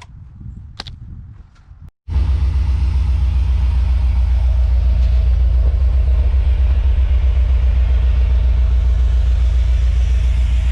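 A few light knocks, then about two seconds in the 1994 GMC C3500HD truck's engine comes in abruptly, running at a steady idle with a loud, evenly pulsing low exhaust rumble as it warms up.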